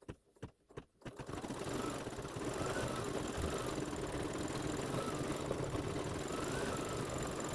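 A few light clicks, then about a second in an embroidery machine starts and stitches steadily at an even pace.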